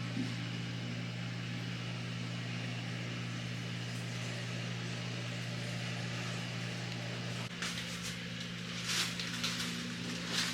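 A steady low mechanical hum that shifts in pitch about seven and a half seconds in, with short bursts of rustling noise near the end.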